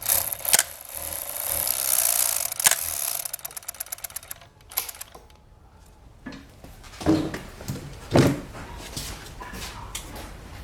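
Industrial three-thread overlock sewing machine with a direct-drive motor stitching fast for about three and a half seconds, then breaking into rapid ticks and stopping. A few separate knocks follow later.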